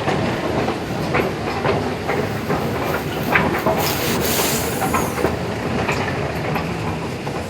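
Delhi Metro train running on the track: a steady rumble with repeated clicks and clacks from the wheels. A burst of high hiss comes for about a second near the middle.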